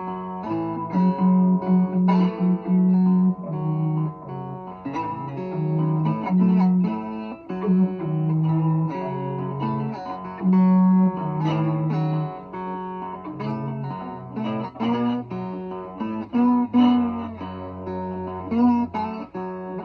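Bottleneck slide guitar playing an instrumental break in a slow blues, plucked notes over held, sliding tones.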